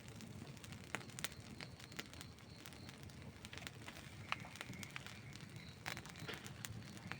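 Outdoor wood campfire burning, crackling with irregular sharp pops, the loudest about a second in and again just past four seconds, over a steady low rumble.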